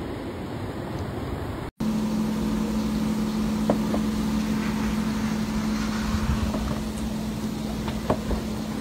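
Wind noise that cuts off abruptly, followed by a vehicle's steady running noise with a low, even hum and a few light clicks.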